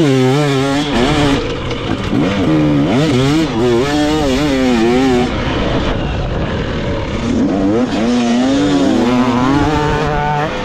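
Dirt bike engine revving, its pitch climbing and wavering up and down as the throttle is worked, in three surges with a lull in the middle.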